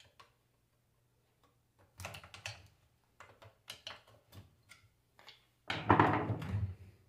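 Metal tools and alternator parts clicking and knocking on a workbench during disassembly, with a louder burst of rattling near the end.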